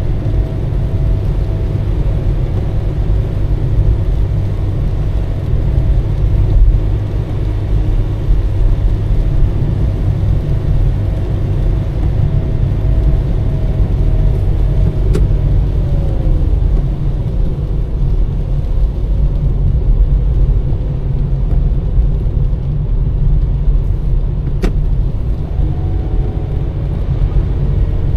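Car driving on a wet road: a steady low rumble of engine and tyres, with a faint tone that drops in pitch about halfway through and two short ticks.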